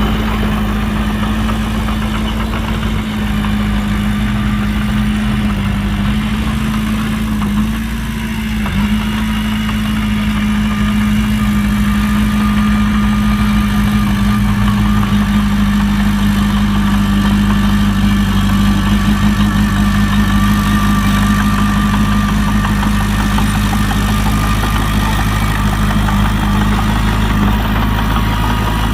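Heavy construction machine's diesel engine running steadily at low revs, with a brief dip about a quarter of the way in before it picks up slightly.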